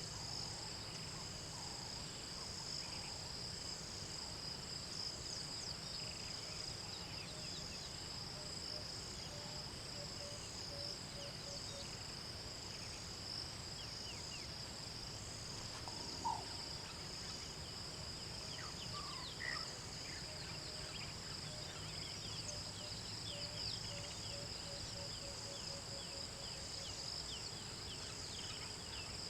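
Steady chorus of insects such as crickets or cicadas, a high, unbroken trill. Scattered short chirps and two runs of quick, evenly spaced low notes sound over it.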